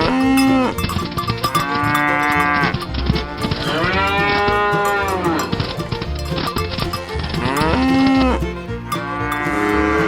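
Cows mooing, about five long calls that rise and fall in pitch, over background music with a steady beat.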